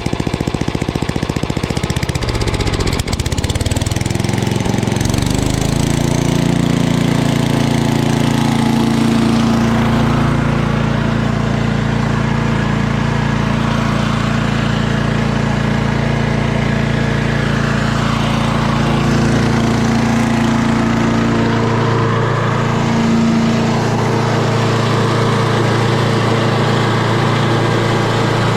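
Craftsman 8.5 hp wood chipper-shredder's engine being throttled up from a warm idle: the pitch climbs a few seconds in, then it runs steadily at high speed.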